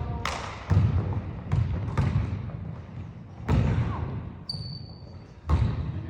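Basketball bouncing on a hardwood gym floor during a pickup game, about six hard irregular bounces echoing in the hall. A brief high squeak is heard about four and a half seconds in.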